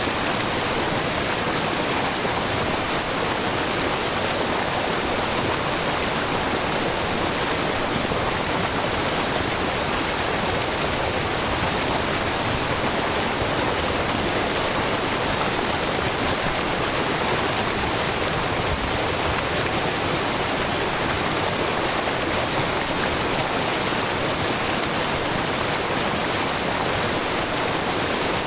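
Water from a wide, low waterfall pouring and splashing steadily, a dense, even rush without pauses.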